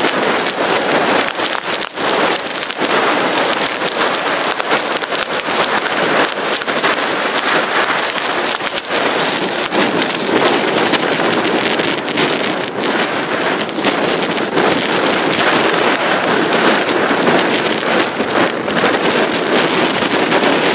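Blizzard wind driving snow against the microphone: a loud, steady hiss with a fine, dense patter of snow hitting, rising and falling with the gusts.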